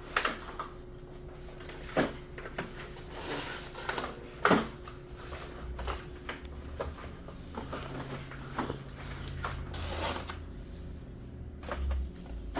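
Scattered knocks and clatter of canned goods and cases being handled and set onto shelves. The two sharpest knocks come about 2 and 4.5 seconds in.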